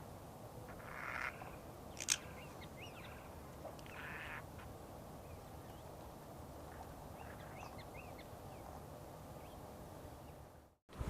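Wild birds calling faintly over steady outdoor background noise: two short harsh, raspy calls, about a second in and about four seconds in, a sharp tick near two seconds, and scattered short chirps. The sound drops out briefly near the end.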